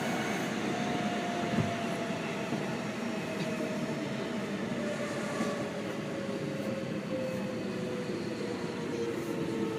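Seibu 6000 series electric train, heard from inside the car, with its Hitachi GTO VVVF inverter and traction motors giving a steady whine that falls gradually in pitch as the train slows, over the rumble of wheels on the rails.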